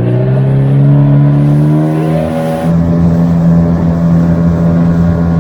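Dinghy outboard motor throttling up, its pitch rising for about two and a half seconds and then holding steady at speed.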